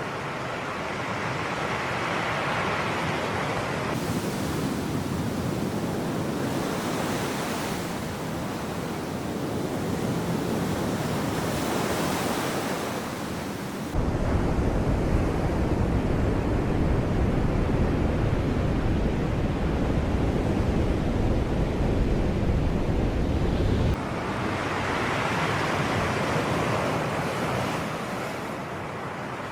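Sea waves washing in and out, rising and falling in steady surges. Wind buffets the microphone with a heavy low rumble for about ten seconds in the middle, starting and stopping abruptly.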